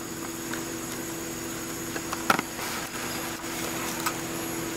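A car engine idling with a steady low hum, under a steady high drone of insects from the roadside forest. A single sharp knock about two seconds in.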